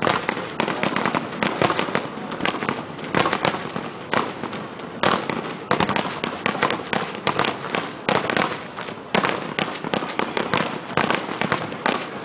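Aerial firework shells bursting in rapid succession, several loud bangs a second with no pause between them.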